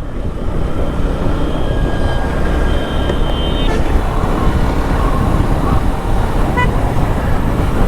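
Riding noise on a moving motorcycle, a dense steady rush of engine and road noise amid bus and car traffic. Vehicle horns sound faintly, held for a second or two in the first half and in one short beep near the end.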